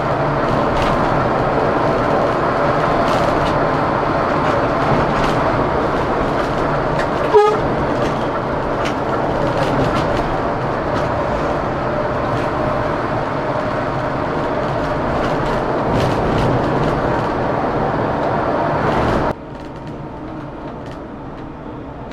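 Scania K410CB coach on the road: steady engine and road noise with faint sustained tones. A single sharp click comes about seven seconds in, and the sound drops suddenly to a quieter level near the end.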